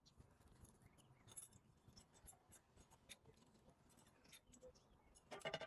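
Near silence broken by scattered faint clicks and light scrapes of small hand-handled objects, with a short louder clatter near the end.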